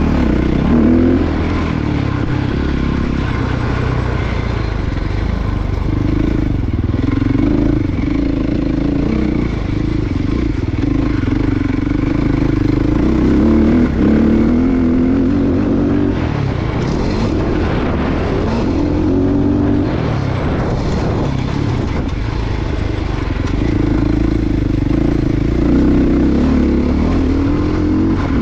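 Motocross dirt bike engine being ridden hard round a track, its pitch rising and falling again and again as the throttle opens and closes and the gears change.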